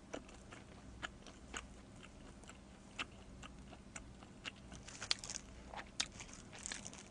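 Faint close-miked chewing of pizza: scattered soft clicks and crunches from the mouth. Near the end comes a light crinkle as a plastic-gloved hand reaches into the pizza box.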